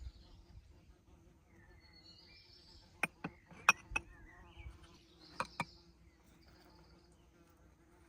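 Outdoor ambience of buzzing insects and chirping birds, cut by a quick cluster of four sharp clicks or knocks about three seconds in and two more a couple of seconds later.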